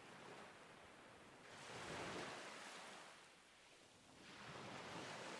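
Faint ocean waves washing on a shore: one wave swells and falls away about two seconds in, and another builds near the end.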